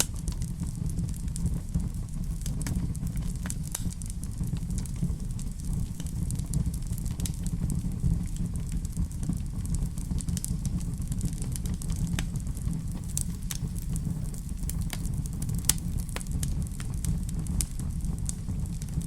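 Wood fire burning in a fireplace: a steady low rumble with scattered sharp crackles and pops, one louder pop about three-quarters of the way through.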